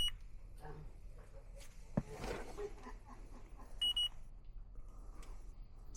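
Short high electronic beeps from a refrigerant leak detector, one at the start and another about four seconds in, while it is being worked around the unit's joints. Faint handling noise throughout, with one sharp knock about two seconds in.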